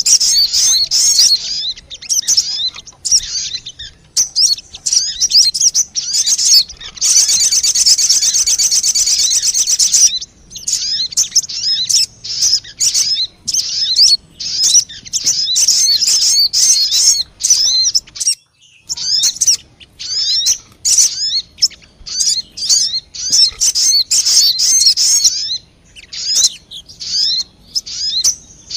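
Sogon bird lure call: rapid, high, repeated chirps in quick succession. A few seconds in, they run into a dense buzzy trill lasting about three seconds, and there is a brief pause near the middle.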